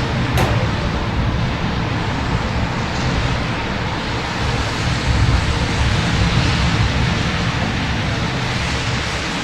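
Steady rumble of city road traffic under the hiss of falling rain, with a single sharp click about half a second in.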